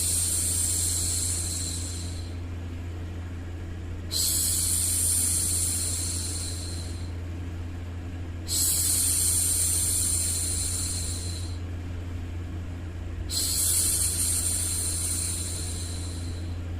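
A woman making a long hushing "shhh" sound to soothe a baby, each shush lasting about three seconds and repeating roughly every four and a half seconds, four times in all. A steady low hum runs underneath.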